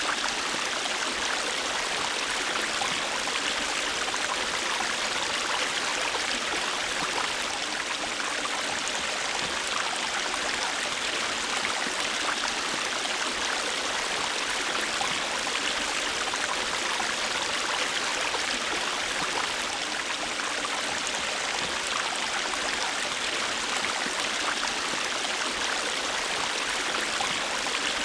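River water flowing steadily over rocks: a continuous rushing babble with a fine splashing texture and no change in level.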